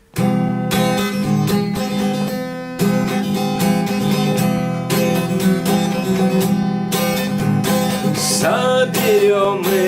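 Acoustic guitar strummed as the introduction to a song. A singing voice comes in about eight seconds in.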